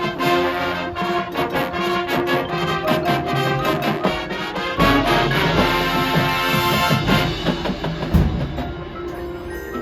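High school marching band playing brass with drums: full held brass chords over a driving percussion beat, with heavy low hits in the middle, easing to softer sustained notes near the end.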